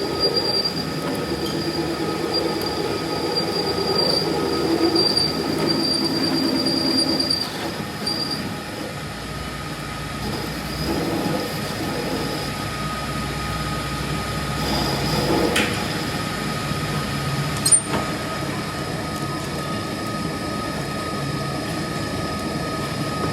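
Steady machine noise with a thin, high squealing whine. The whine and some of the noise drop away about seven seconds in, and there is one sharp click near the end.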